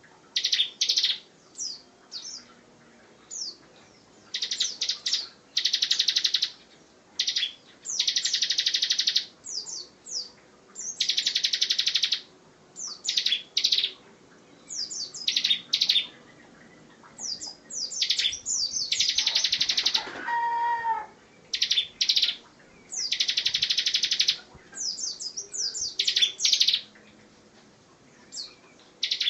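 Bar-winged prinia (ciblek) singing: short, high, rapid trilled phrases repeated every second or two with brief pauses between. About twenty seconds in, a lower call with several stacked tones sounds briefly.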